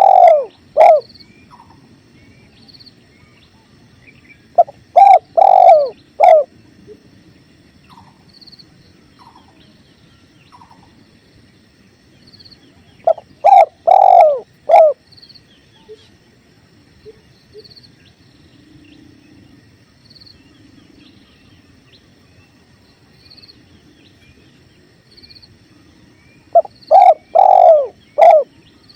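Spotted dove calling in repeated phrases of several rolling coo notes, a few times with long gaps between phrases, over the steady low rush of a flowing river. A faint high chirp repeats at an even beat in the background.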